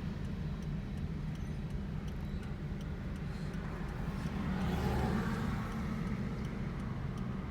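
Steady low hum of road-vehicle noise, with a louder swell of passing traffic about five seconds in.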